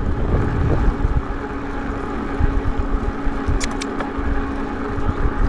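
Wind rumbling and buffeting over the microphone while riding an e-bike, with a steady hum from the bike's electric motor and a few light ticks about three and a half seconds in.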